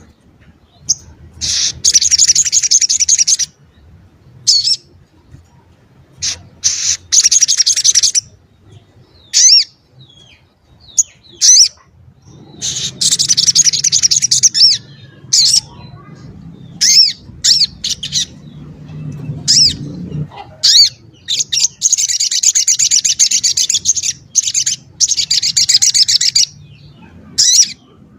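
A sogok ontong, a small spiderhunter, singing loudly: rapid high trilled phrases of a second or two, broken up by short sharp single chips.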